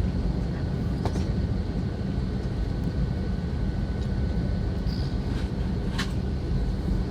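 Steady low rumble of a vehicle, with a faint steady tone and a couple of sharp clicks.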